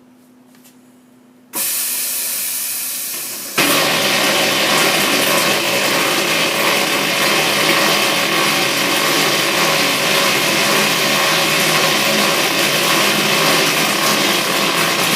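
Truck tire sidewall remover machine starting up with a sudden loud, steady mechanical noise about a second and a half in, which gets louder about two seconds later and keeps running.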